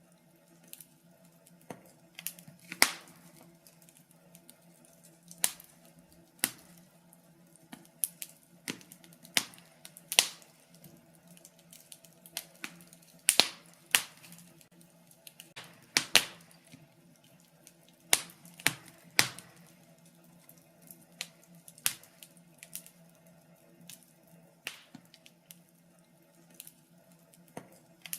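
Wood fire crackling in a fireplace: irregular sharp pops and snaps, the louder ones every second or two with smaller ticks between, over a faint steady low hum.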